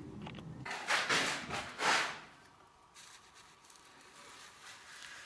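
Mortar being scraped and spread on brick during stove laying: two short scraping sounds in the first two seconds, then only faint room noise.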